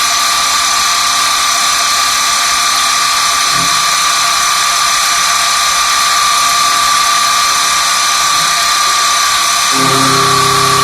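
Swiss-type CNC lathe running while machining a bone screw: a steady, loud machine whine with several held high tones over a hiss. Near the end a lower hum comes in as another drive changes speed.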